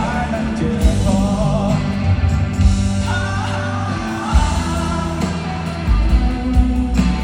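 Live rock band playing a Mandarin rock ballad, with drums, bass and guitar and a singing voice over them.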